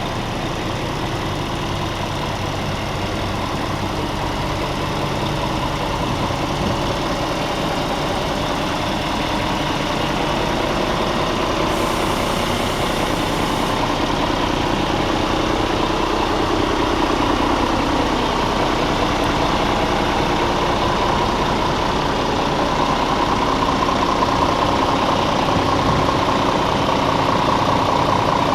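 Scania R450 tractor unit's 13-litre straight-six diesel idling steadily, growing gradually louder toward the end.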